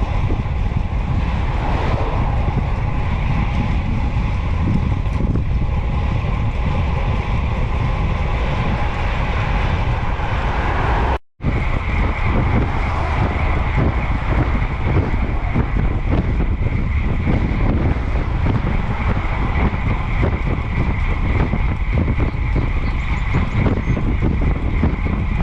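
Wind buffeting the microphone of a camera carried on a moving bicycle, a steady rushing noise with road noise under it. The sound cuts out completely for a moment about eleven seconds in.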